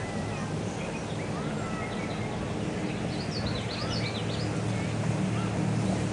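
Wild songbirds calling, short whistled chirps and glides, with a quick run of high chirps about three seconds in. Under them runs a steady low rumble that grows slightly louder in the second half.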